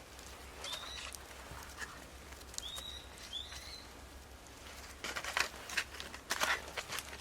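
A small bird gives three short, high chirps, each bending upward. About five seconds in, a run of loud irregular crackling and crunching noises starts.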